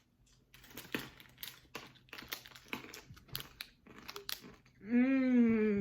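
Crunchy peanuts being chewed: a quick run of crisp crunches, about two or three a second. Near the end comes a hummed "mmm" of approval.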